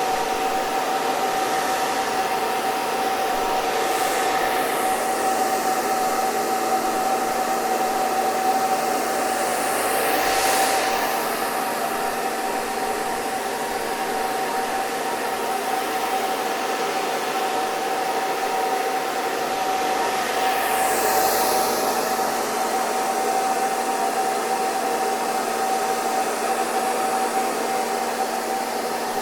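Hair dryer running continuously: a steady rush of air with a constant motor whine. The hiss swells and shifts in tone briefly a few times.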